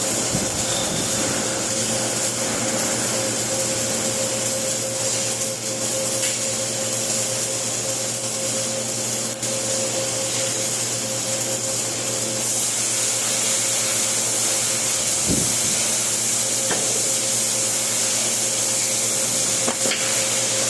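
Flux-cored arc welding: the arc giving a steady hiss with a constant hum underneath.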